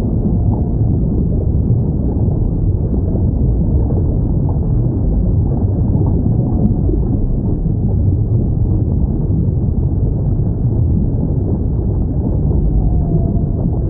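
Steady low ocean rumble with a few faint, short whale calls. The clearest call comes near the end and dips slightly in pitch.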